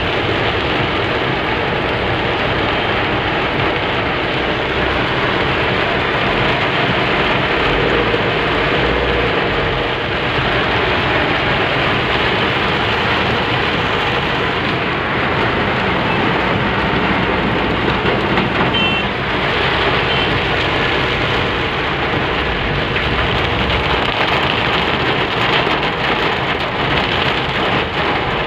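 Heavy rain beating on a car's roof and windscreen, heard from inside the car as a steady, dense hiss.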